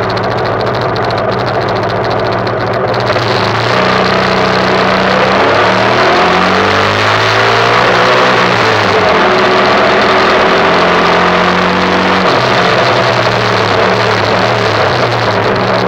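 2005 Yamaha YBR 125's derestricted single-cylinder four-stroke engine idling, then pulling away about three seconds in and revving up through the gears, the pitch climbing and dropping at each change before settling to a steadier cruise. Wind rushes over the microphone once the bike is moving.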